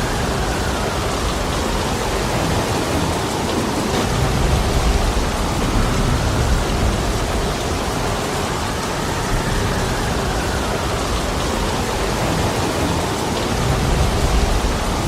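Heavy rain pouring steadily, with a deep low rumble swelling up about four seconds in and again near the end.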